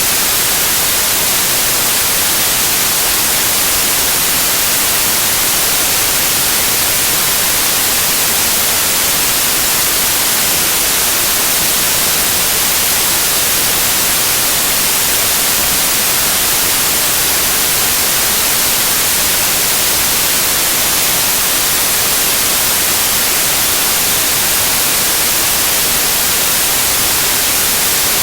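Loud, steady white noise: an even electronic hiss with no changes or other sounds.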